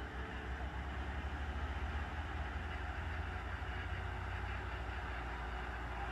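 Backhoe's diesel engine running steadily, a low rumble with no change in pace.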